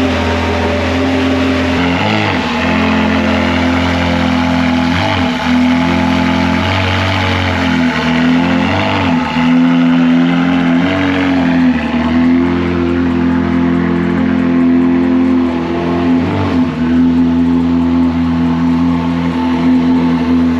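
Ferrari engine with a full aftermarket exhaust idling with a steady drone, given about five short throttle blips that briefly lift the pitch.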